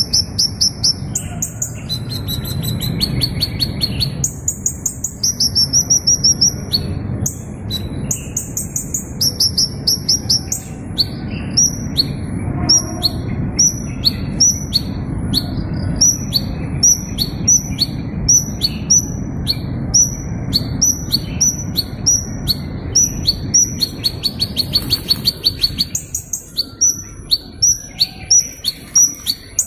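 A small bird calling continuously with sharp, high-pitched chirps and short buzzy trills, the chirps repeating at about two a second through the middle, over a steady low background rumble that fades near the end.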